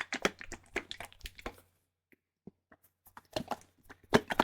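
Thick, viscous liquid worked close to the microphone, making a quick run of wet, sticky clicks. The clicks stop for about a second and a half midway, then start again.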